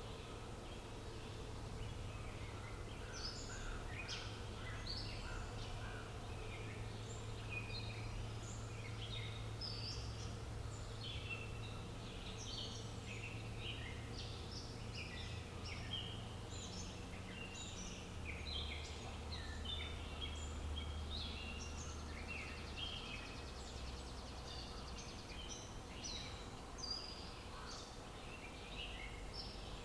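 Birds chirping and twittering in a dense, continuous chorus of short high chirps, over a steady low hum of outdoor ambience.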